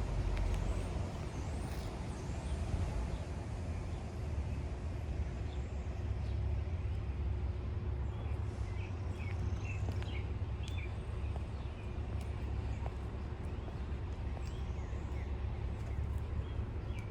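Outdoor park ambience: a steady low rumble with short bird chirps scattered through the middle and again near the end.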